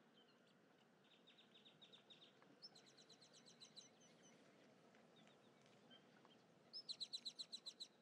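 Bird song: three rapid trills of about ten quick repeated notes a second, the last and loudest near the end, over a faint steady outdoor hiss.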